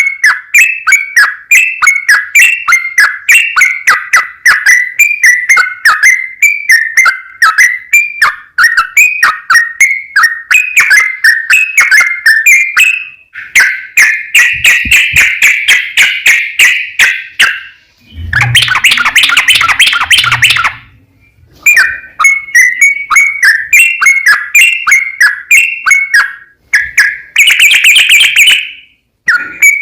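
Yellow-vented bulbul (trucukan) singing a long, rapid run of short repeated chattering notes, several a second, with hardly a pause. Partway through comes a harsher, noisier burst of a couple of seconds.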